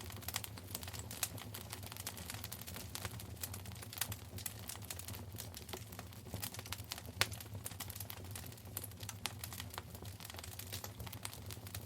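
Wood fire crackling in a fireplace: irregular sharp pops and snaps, with one louder pop about seven seconds in, over a low steady hum.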